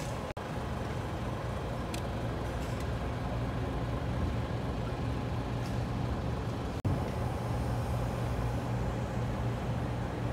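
BMW R1250RS motorcycle running, a steady low engine drone with road noise, broken twice by a momentary drop-out in the sound.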